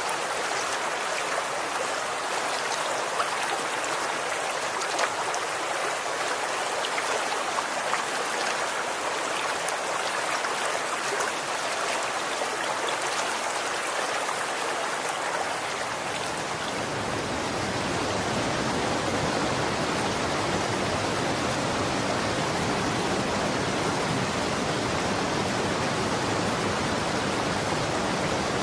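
Running water of a stream flowing steadily, a rushing hiss with small splashes in it. About halfway through the sound turns fuller and deeper, a heavier rush.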